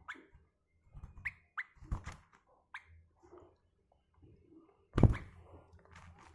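A sooty-headed bulbul giving several short, sharp chirps in the first three seconds, among light knocks, with one loud thump about five seconds in.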